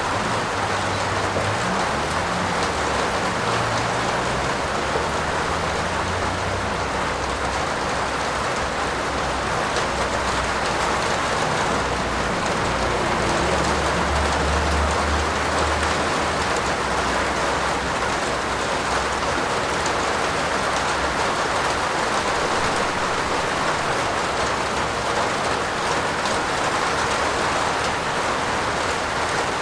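Steady rain falling on a roof, an even hiss of drops. A low rumble comes and goes underneath through the first half and is strongest around the middle.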